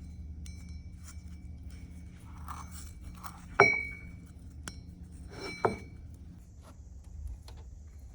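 Light metallic clinks and two loud ringing clanks of metal striking metal, about two seconds apart near the middle, over a low steady hum.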